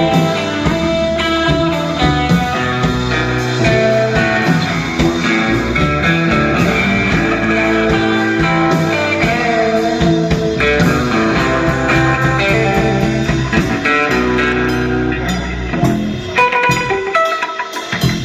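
Live blues-rock band playing an instrumental break, with a guitar solo over bass and drums. The band thins out near the end, before the next verse.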